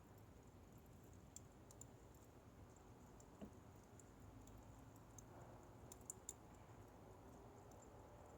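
Faint, scattered crackles and pops of a burning wood fire, a couple of sharper pops about six seconds in, over a low steady background.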